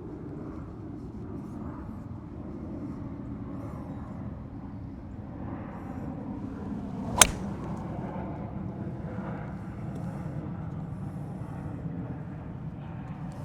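A single crisp strike of a golf club hitting a ball, a little past the middle, over a steady low outdoor rumble.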